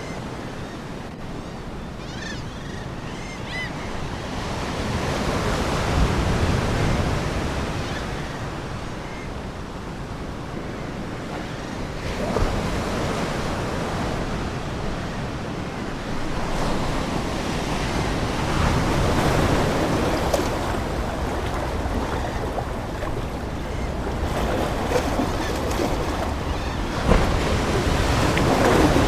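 Ocean waves breaking and washing ashore, swelling and ebbing every several seconds, with faint seagull calls a few seconds in.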